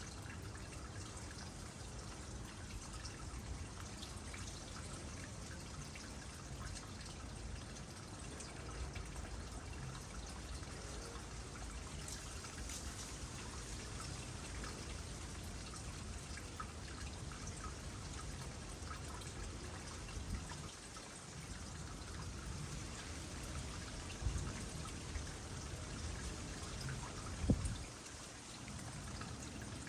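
Water trickling steadily into a small pond, with scattered drops of light rain ticking on the surface. A few soft low thumps come late, the loudest near the end.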